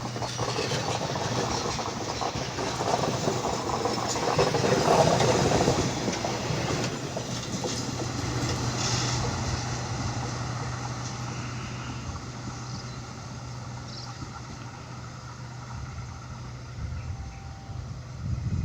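Passenger train hauled by a KAI CC206 diesel-electric locomotive running past, loudest about five seconds in and then fading away, over a steady low engine hum.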